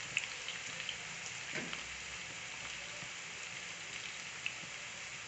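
Carrots and potatoes frying in a pan of oil over a very low flame: a soft steady sizzle with scattered small pops and crackles.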